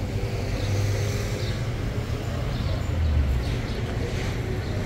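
A motor vehicle's engine idling close by, low and steady.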